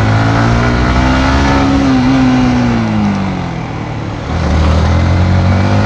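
Yamaha MT-15's 155 cc single-cylinder engine on its stock exhaust, running at low speed: its pitch rises a little and then falls, it goes quieter about three seconds in, and picks up again just after four seconds.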